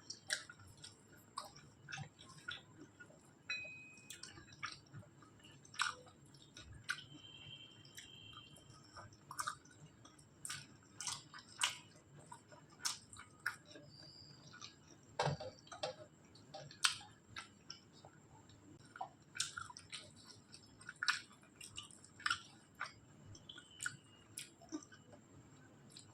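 Close-miked chewing of a person eating a rice-and-curry meal, with irregular wet mouth clicks and smacks.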